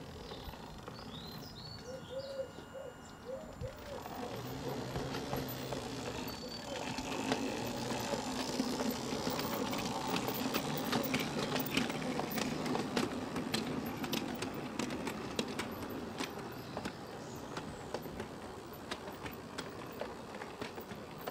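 A full-size train on the Setesdalsbanen heritage railway passing by. A rumble and clatter with many sharp clicks builds up, is loudest in the middle and fades away. A small bird chirps a few times in the first few seconds.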